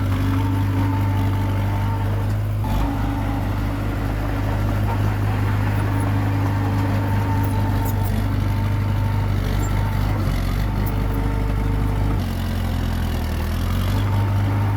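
Komatsu D21P bulldozer's diesel engine running steadily under work, its note shifting briefly a few seconds in and again near the end.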